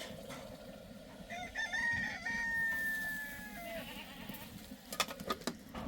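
Rooster crowing once: a long call that starts rough about a second in, holds a steady note and drops at the end. A few sharp knocks follow near the end.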